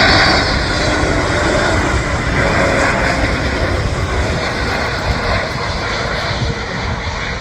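Airbus airliner's turbofan jet engines as it flies past, a loud steady rush of jet noise that slowly fades toward the end.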